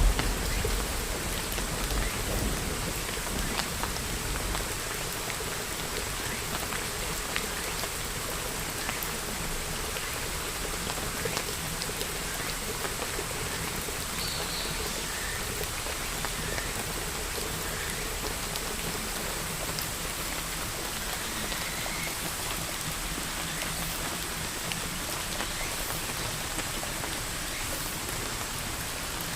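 Steady rain falling, with a thunder rumble dying away in the first few seconds.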